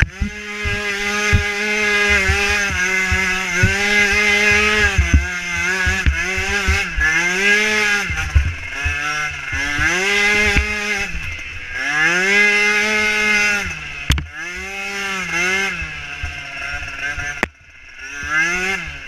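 Small micro-class ATV engine revving up and down as the throttle is opened and closed, its pitch rising and falling every second or two. Near the end it drops off sharply for a moment, then picks up again.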